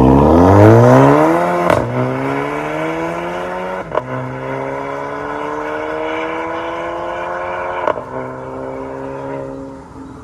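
VW Golf 280TSI's EA211 turbo four-cylinder through an MS-R valved cat-back exhaust, accelerating hard through the gears: the pitch climbs, then drops with a short crack at each of three upshifts, each gear pulling longer than the last, before it levels off and fades near the end.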